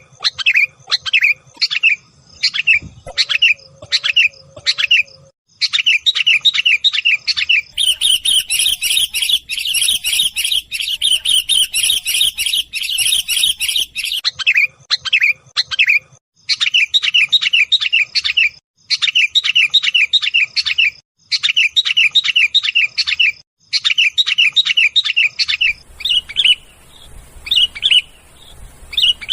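Sooty-headed bulbuls (kutilang) giving agitated, rapid chattering calls, a loud bird-trapping lure recording. The notes come in quick phrases of a second or two with short gaps, and run together into dense, continuous chatter for several seconds around the middle.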